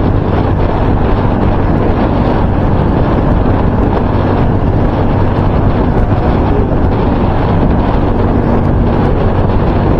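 Loud, steady wind noise buffeting a microphone that has been wrapped in electrical tape, which fails to keep the wind rumble out.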